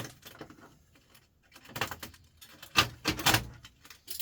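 Irregular knocks and rattles of printer parts being handled and pulled apart by hand. There is a small group of knocks near halfway, a sharper knock just before three seconds in, then a quick cluster of rattles.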